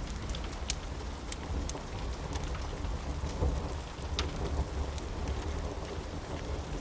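Steady rain with a low, continuous rumble of thunder underneath, and scattered sharp clicks throughout.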